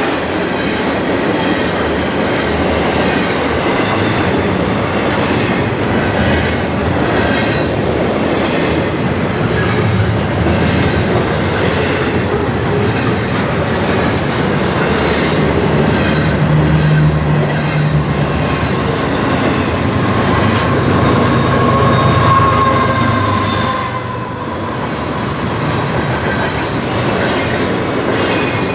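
Train cars rolling past on the rails with a steady rumble and repeated clacks of wheels over the rail joints. A thin wheel squeal rises briefly about two-thirds of the way through.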